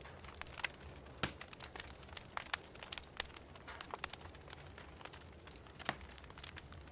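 Wood fire crackling in a fireplace: irregular sharp pops and snaps over a low steady rumble, with a louder snap about a second in and another near the end.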